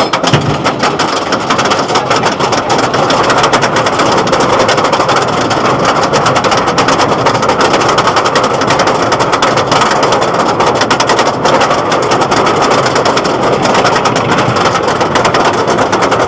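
Storm Chaser roller coaster ridden from the train: a loud, steady rush of wind and track noise with a dense rattle of clicks.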